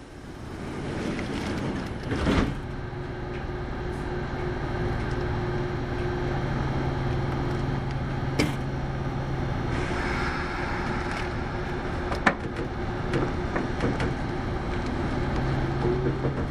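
Kintetsu 8810-series electric train heard from inside the car, picking up speed and running, with a steady motor hum. There are sharp knocks from the wheels and car body at about two, eight and twelve seconds in, and a rising motor whine near the end.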